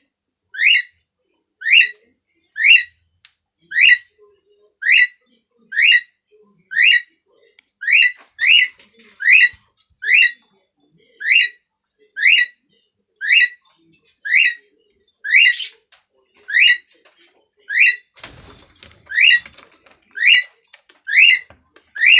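A cockatiel calling over and over, a short rising chirp about once a second at a steady pace. A brief rustling noise comes in near the end.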